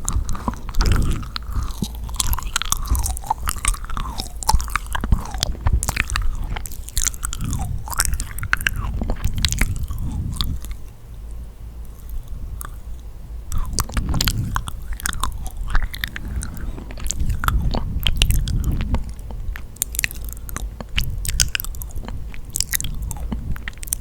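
Close-miked chewing of yakgwa, a sticky, honey-soaked Korean fried cookie: wet, sticky mouth sounds with many small clicks and smacks, easing off briefly near the middle.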